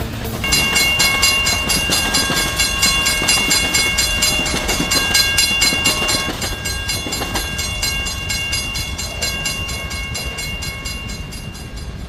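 A train running past, with a rapid, even clicking and several high steady tones over a low rumble; the tones start about half a second in and fade near the end.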